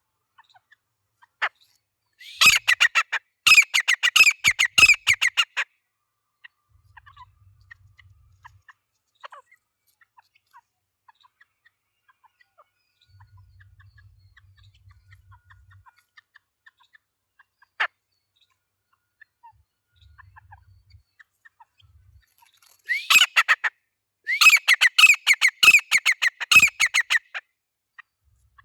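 Grey francolin (teetar) calling: a loud, rapid series of repeated notes lasting about three seconds, then after a long pause a second series of the same kind near the end.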